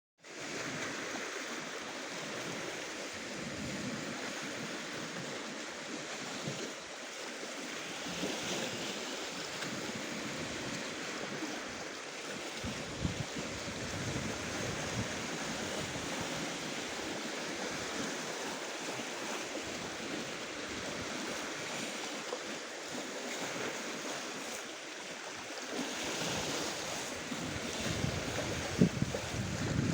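Black Sea surf washing steadily onto the shore, swelling louder a few times, with wind buffeting the microphone.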